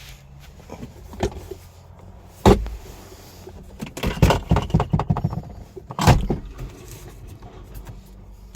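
Doors of a 2020 Ford Edge being worked: two loud clunks about three and a half seconds apart, with a quick run of clicks and knocks between them.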